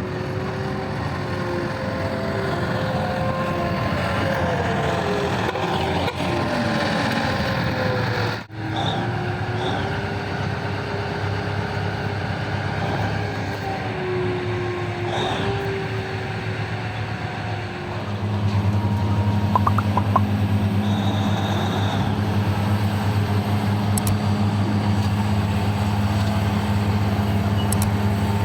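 Large diesel mining machinery running, with pitch lines sliding down as the engines and hydraulics work. The sound drops out briefly about eight seconds in. From about eighteen seconds a louder, steady low engine drone takes over.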